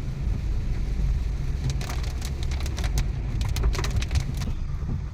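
Heavy rain striking a moving car, heard from inside the cabin as irregular sharp drop impacts over the steady low road and engine rumble.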